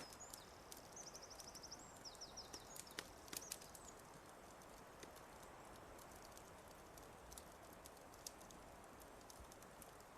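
Fireplace crackling, with scattered sharp pops over a soft steady hiss. A small bird sings a high, rapid trill of repeated notes during the first three seconds or so.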